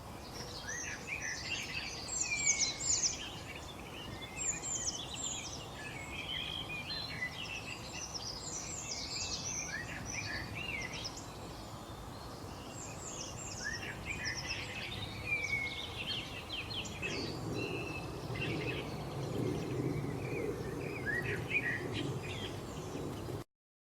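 Several small birds chirping and calling at once: a dense stream of short, high chirps and quick downward-sweeping notes over a steady background hiss. A low rumbling noise joins in about three-quarters of the way through, and the sound cuts off abruptly near the end.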